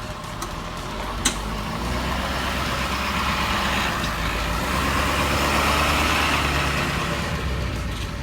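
Road vehicle noise: a low engine and tyre rumble with a rushing noise that builds, peaks about six seconds in and eases off again. A single short click about a second in.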